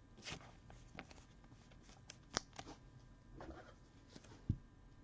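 Trading cards being handled and slid against one another: faint soft swishes and light clicks, with a sharper click about halfway and a low tap near the end.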